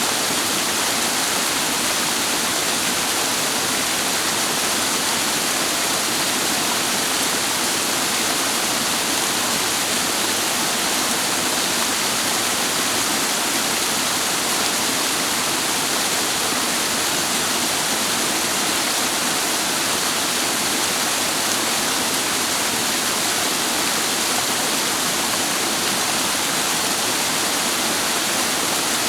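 Rushing water of a clear, rocky mountain stream cascading below a waterfall: a steady, even hiss with no breaks.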